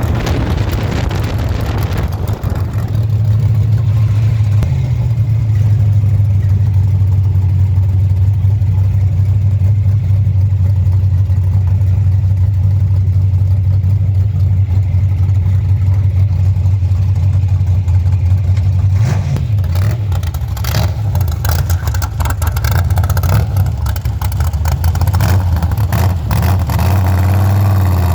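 Cammed small-block 350 Chevy V8 in a 1928 Ford Model A hot rod running steadily with a deep, even hum. Sharp crackles join in during the last third, and the pitch climbs near the end as the engine revs up.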